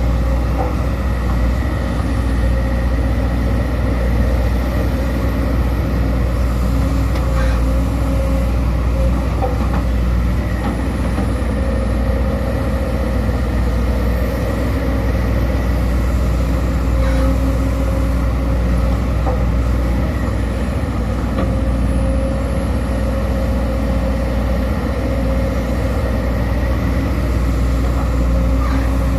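Sumitomo SH210 excavator's diesel engine running steadily while it works, a constant low drone with a few steady tones above it and a few faint clicks.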